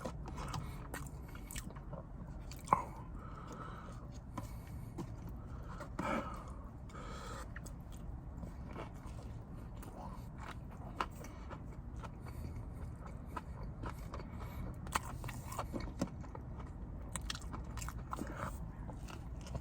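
Close-up eating sounds of a person chewing and biting food, with scattered small wet clicks and crunches.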